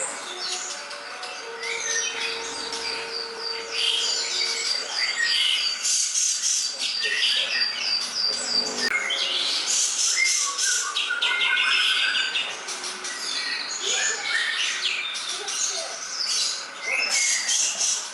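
Dense songbird chatter from a masteran bird-song recording: quick whistled chirps and trills, several calls overlapping. A fast run of repeated notes sounds in the first few seconds.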